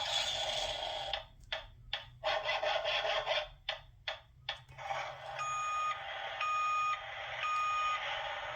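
Construction-site sound effect: a harsh clattering noise that breaks into short bursts for a few seconds and then runs steadily again. Over the steady part a heavy vehicle's reversing alarm beeps three times, about a second apart.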